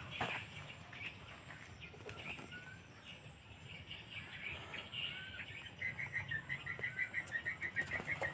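A bird chirping: faint scattered chirps at first, then from about six seconds in a rapid, even run of short chirps, about six a second.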